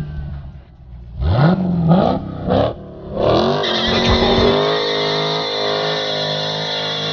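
Dodge Challenger Scat Pack's 6.4-litre HEMI V8 blipped up three times in quick succession, then held at high revs from about three seconds in for a burnout, the spinning rear tyres squealing over the engine.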